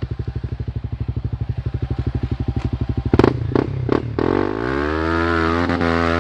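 Off-road motorcycle engine idling with an even chug. A little after three seconds come a few sharp knocks, then the revs climb and hold, wavering under throttle.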